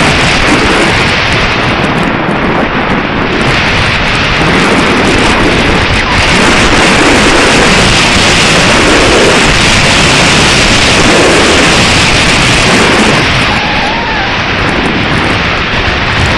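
Loud, gusting wind buffeting the microphone. It is a steady rush with small swells and lulls in level.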